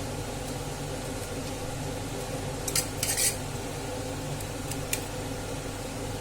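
Metal spoon clinking and scraping against a cooking pot while rice is spooned in: a quick cluster of clinks around the middle and a single click near the end, over a steady low hum.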